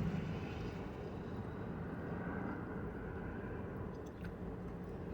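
Quiet chewing of spicy chicken fries over a steady low background rumble, with a few faint clicks about four seconds in.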